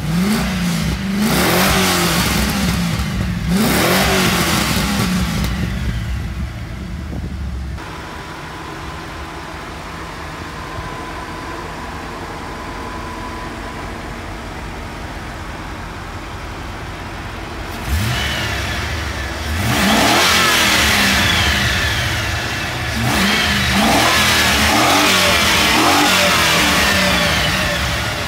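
Holden VT Commodore CSV Volanti 5000si's 5.0-litre V8 being revved in repeated throttle blips, each rev rising and falling. About eight seconds in it settles to a steady idle. Nearly ten seconds later it is revved several more times.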